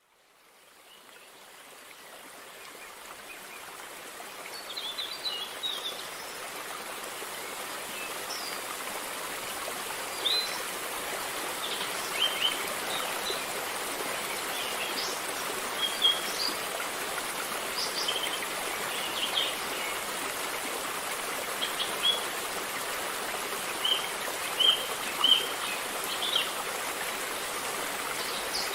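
River water flowing in a steady rush, fading in over the first few seconds. Small birds chirp briefly and repeatedly above it.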